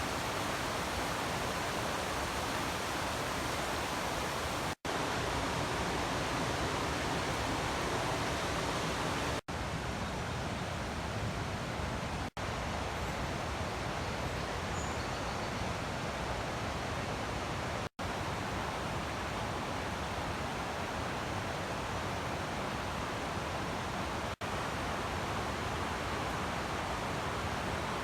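River water rushing over a waterfall on the Puntledge River: a steady, dense rush of noise. It is broken by several momentary gaps where the recording cuts from one take to the next.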